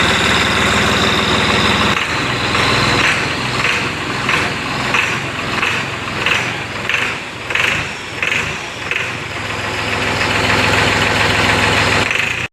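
3630 Special Edition tractor's diesel engine running. For most of the middle stretch the sound pulses regularly, about one and a half times a second, then it settles back to steady running.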